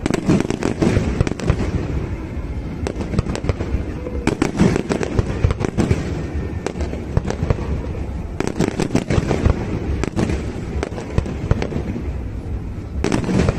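Fireworks display: a rapid, continuous run of aerial shell bangs and crackling, with heavier clusters of bursts coming in waves about every four seconds.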